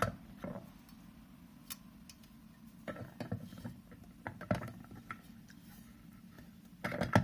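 Plastic parts of a Bosch MultiTalent 3 food processor clicking and knocking as a blade disc is handled and fitted onto the bowl: scattered light taps and clicks at irregular intervals.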